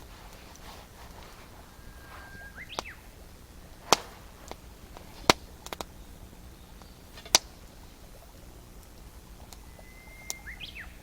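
A songbird whistles twice, each song a held clear note that breaks into a quick rising flourish. A handful of sharp knocks sound in between.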